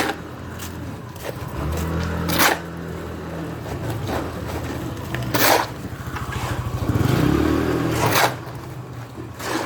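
Four loud scrapes, about three seconds apart, over a low motor hum that comes and goes and rises in pitch just before the last scrape.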